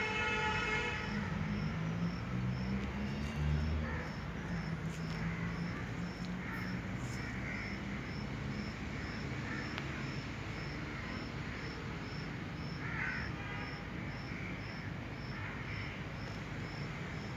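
An insect chirping steadily, about two to three high chirps a second, with scattered bird calls. A low rumble fades out after about four seconds.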